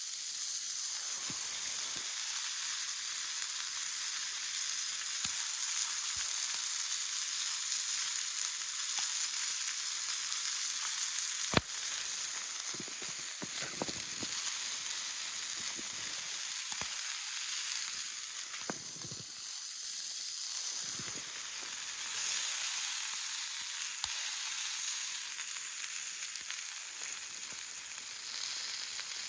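Food sizzling in a small frying pan over a campfire: a steady high hiss with occasional pops, one sharp pop about twelve seconds in.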